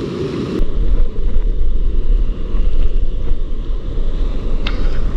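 Rushing water from a waterfall stream, with wind buffeting the microphone from about half a second in, and a short knock near the end.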